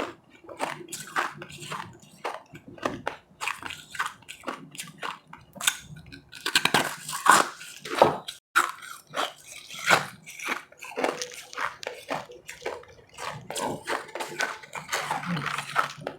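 Close-miked biting and chewing of powdery ice, a run of irregular sharp crunches with denser crunching a third of the way in and again near the end.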